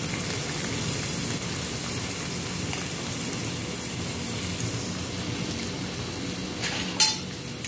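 Chopped garlic, ginger and cumin seeds sizzling steadily in hot oil in a kadhai: the tempering (phodni) frying. A brief knock sounds near the end.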